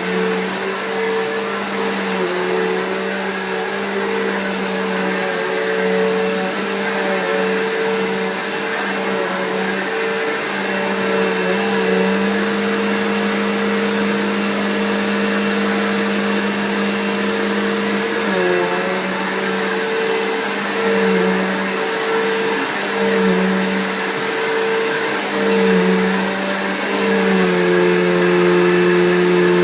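Bissell PowerForce Bagged upright vacuum cleaner running steadily with a strong motor hum, its pitch dipping briefly several times, as around 18 s and again near the end.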